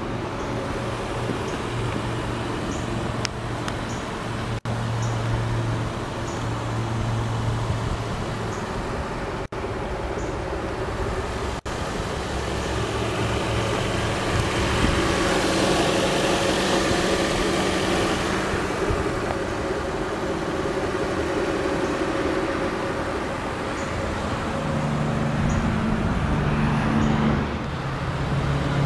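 2004 Audi A8 L's 4.2-litre V8 idling steadily. About halfway through, a louder rush of noise swells and fades over a few seconds.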